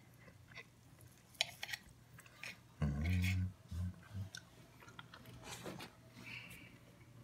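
A person chewing roasted meat, with scattered sharp clicks from hands and tongs on a ceramic dish, and a brief low hum about three seconds in, the loudest sound.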